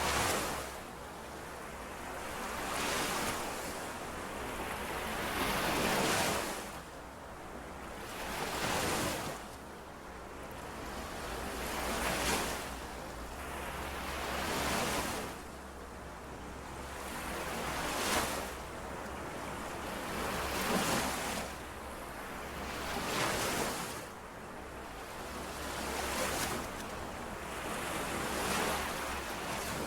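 Small lake waves washing in and out at the shore in a steady rhythm, each wave swelling and falling away about every three seconds.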